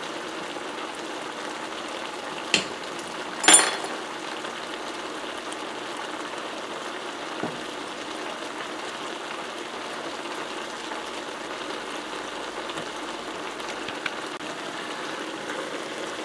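Vegetable stir fry sizzling steadily in a wok on high heat. Two sharp knocks cut through it, one about two and a half seconds in and a louder one a second later.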